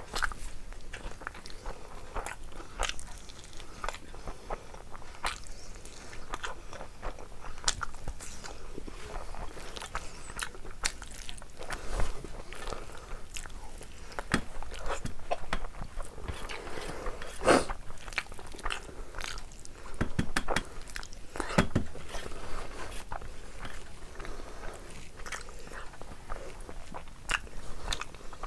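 A person chewing and biting on bone-in mutton shank pieces with rice, eaten by hand: a steady run of wet mouth clicks and smacks. A few sharper, louder cracks stand out about twelve, seventeen and twenty-two seconds in.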